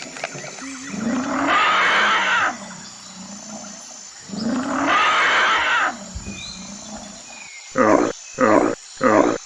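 A large animal calling: two long, loud calls a few seconds apart, then four short grunt-like calls in quick succession near the end.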